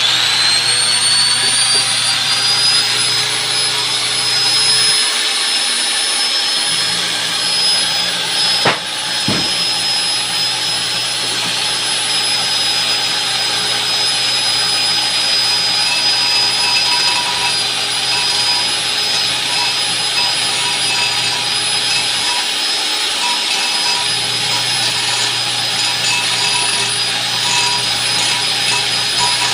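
An electric power-tool motor starts, its high whine rising over the first second as it spins up, then runs steadily over a rough hiss, as used to machine a brake drum. A single sharp knock comes about nine seconds in.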